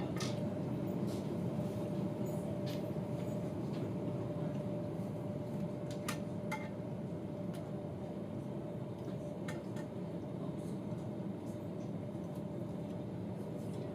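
Steady low rumble of a passenger train running, heard from inside the carriage, with a thin steady hum over it and a few light clicks.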